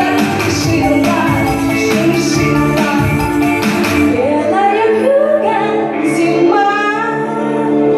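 Pop song with a woman singing over a backing track; about halfway through, the drum beat drops out, leaving held chords and a gliding vocal line.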